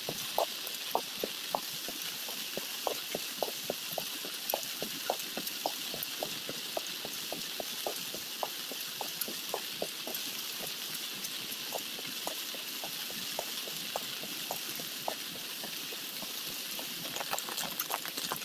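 Raindrops tapping on an umbrella, a few sharp taps a second that thin out midway and pick up again near the end, over a steady rush of flood water.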